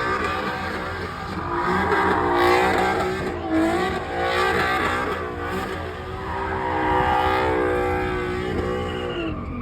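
Car engine revving hard with its pitch swinging up and down, over tires squealing as the car spins in a burnout or donut. The revs drop away near the end.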